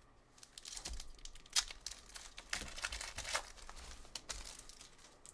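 A foil trading-card pack being torn open and its wrapper crinkled by hand, a run of irregular sharp crackles and rustles.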